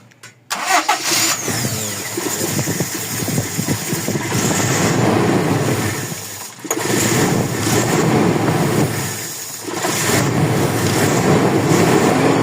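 Toyota 1RZ four-cylinder petrol engine cranking and catching about half a second in, then running, its level dipping twice and rising again as the throttle eases and opens. The engine has a misfire, laid to the number 4 injector.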